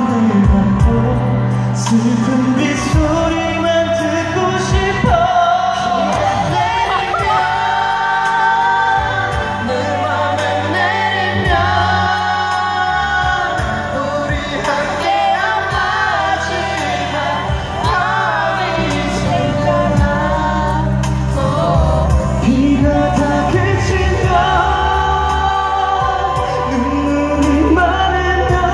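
Live pop ballad from a concert PA: male vocals sung over a band backing track.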